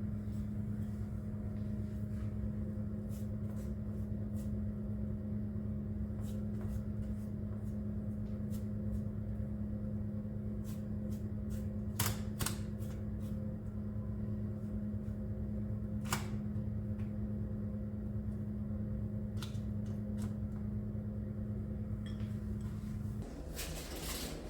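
Steady electric appliance hum, with a few light clicks and taps over it; the hum cuts off abruptly shortly before the end.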